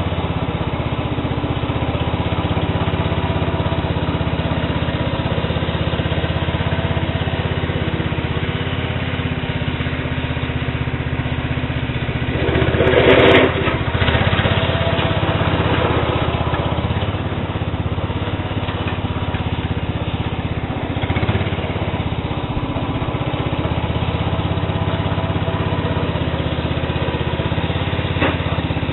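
Sears Suburban SS12 garden tractor's small engine running steadily. There is a brief louder burst about halfway through.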